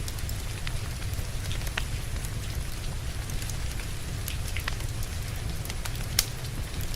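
Steady rain with a low rumble underneath, mixed with a wood fire crackling: scattered sharp pops throughout, one louder pop near the end.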